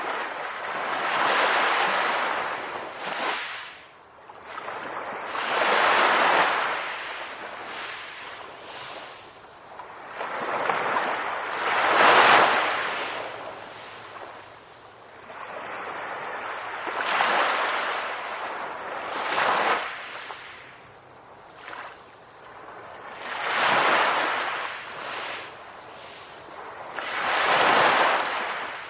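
Ocean waves breaking and washing up on a shore. Six surges of surf swell and fade, about one every five seconds.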